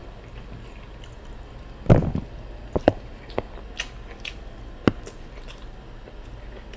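Close-miked eating sounds: chewing with a few sharp, wet mouth clicks, and one heavier thump about two seconds in.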